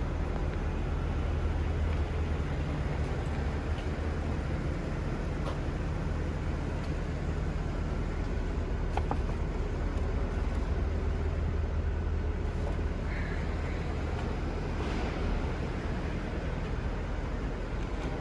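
Mercedes-AMG C63 engine idling steadily after a warm start, with a deep even exhaust note.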